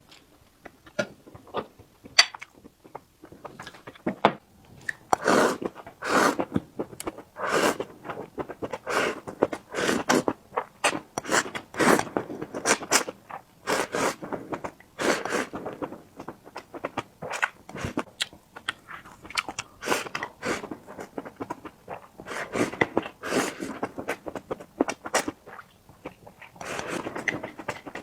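Close-miked eating: a person chewing and biting into food, with crunchy mouthfuls coming about once or twice a second.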